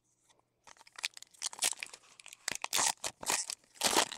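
A foil trading-card pack wrapper being torn open and crinkled in the hands, in a run of irregular rustling tears that starts about a second in and grows louder toward the end.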